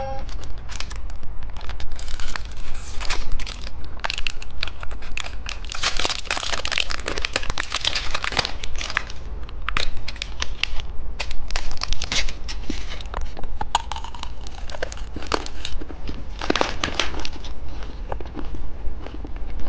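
Plastic candy wrapper crinkling and tearing as the packaging is handled and opened, in a dense run of irregular crackles and short rustling bursts.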